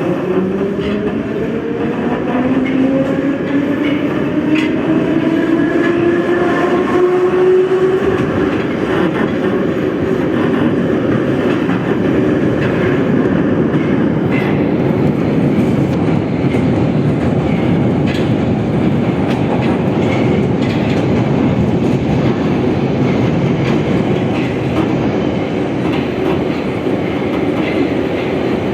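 Moscow Metro train accelerating: the traction motors' whine climbs in several tones over the first eight seconds or so, then gives way to a steady rolling rumble of wheels on rail with scattered clicks.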